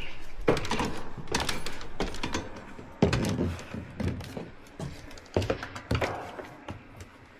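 Irregular knocks and thunks, about two a second, growing fainter toward the end.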